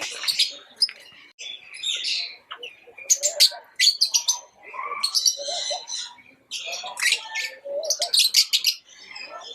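Lovebirds chirping: rapid runs of short, sharp, high-pitched chirps, broken by brief pauses.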